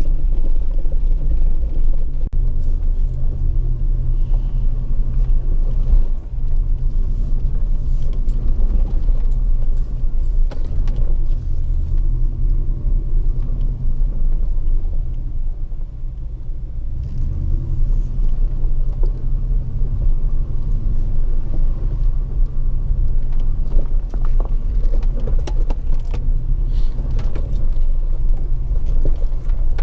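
Jeep WJ Grand Cherokee's engine running under changing throttle as it is driven on a dirt trail, with a steady low rumble. Light rattles and clicks sound throughout.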